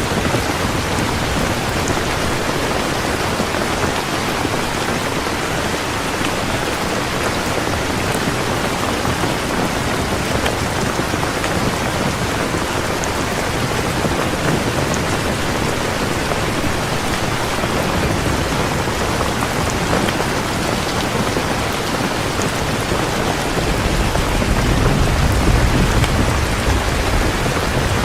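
Heavy rain falling steadily, a dense even hiss. A low rumble builds about 24 seconds in.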